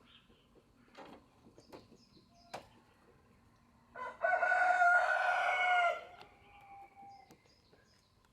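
Rooster crowing once, a loud call of about two seconds starting about four seconds in, with a few faint knocks before it.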